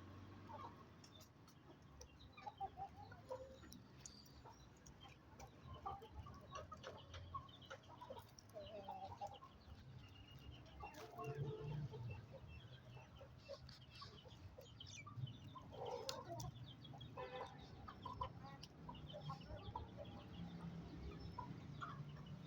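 Aseel chickens clucking quietly and intermittently, with scattered short clicks among the calls.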